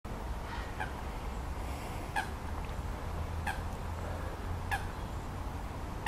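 A bird calling: four short calls, each falling in pitch, about a second and a quarter apart, over a low steady rumble.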